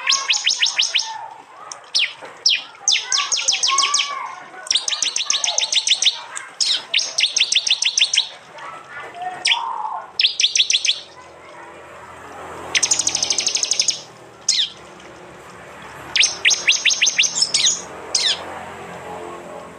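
Prinias (prenjak) calling in a series of 'tembakan' bursts: about nine bursts, each about a second long, of rapid, high-pitched repeated notes, with short pauses between them.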